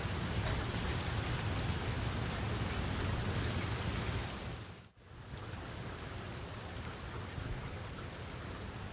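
Steady rain falling, a hiss of many drops with a low rumble underneath and a few separate drop ticks. About halfway through it fades out briefly and comes back slightly softer, with less of the low rumble.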